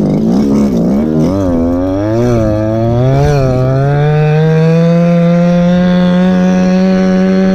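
Go-Ped scooter's small two-stroke engine (a CY26RC RC-car motor) running under throttle. The revs rise and fall unevenly for the first three seconds or so, then climb and hold at a steady high pitch.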